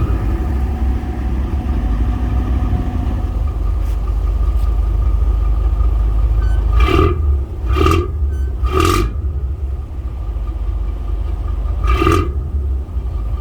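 Boat engine running steadily with a deep low rumble while a vessel is pushed in to berth. Four short, sharp louder bursts cut across it: three about a second apart in the middle and one more near the end.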